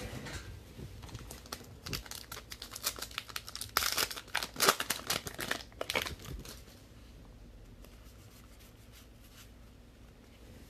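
Trading-card pack wrapper being torn open and crinkled, a dense run of crackling in the first six seconds or so, loudest about four to five seconds in, then it stops.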